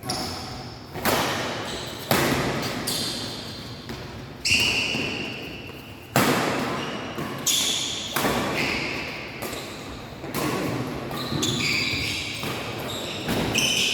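Badminton rally: racket strings hitting the shuttlecock about once a second or two, each hit sharp and echoing in the hall, with short high squeaks of court shoes on the floor between hits.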